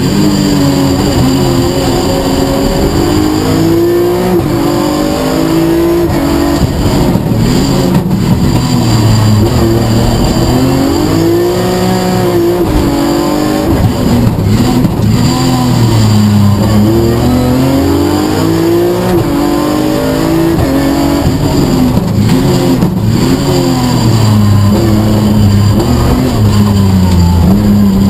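BMW E46 M3 rally car's straight-six engine heard from inside the cabin, driven hard through the gears: its pitch climbs and drops several times as it accelerates, shifts and lifts off for corners, over steady road noise.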